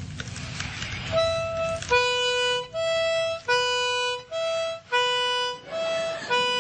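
A reedy, harmonica-like tone alternating between a higher and a lower note, each held steady for under a second, about four times each.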